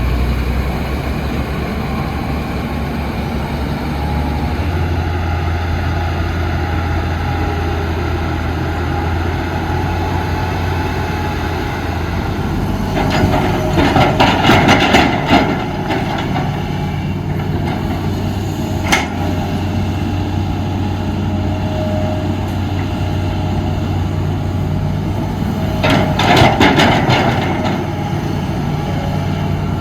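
Heavy diesel machinery engine running steadily, with two spells of metallic clanking and clattering about halfway through and near the end, and a single sharp knock in between.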